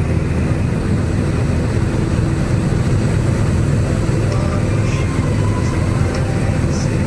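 Light single-engine airplane's piston engine and propeller droning steadily in the cockpit in flight, with a constant low hum and no change in pitch.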